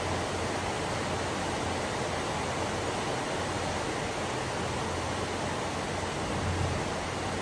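Steady rain, an even hiss with a low rumble underneath and no breaks.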